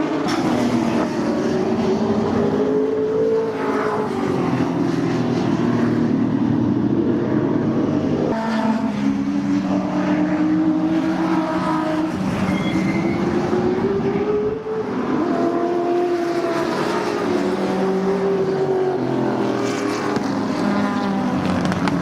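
Group N historic touring cars racing past, several engines running hard at once, their pitch climbing and dropping again and again as they accelerate and change gear.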